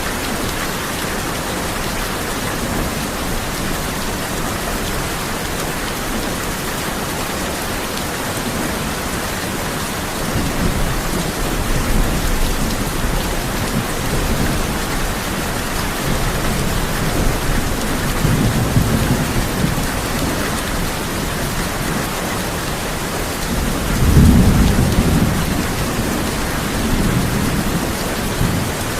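Steady heavy rain drumming on a tin roof, with thunder rolling in low rumbles several times; the loudest rumble comes about three-quarters of the way through.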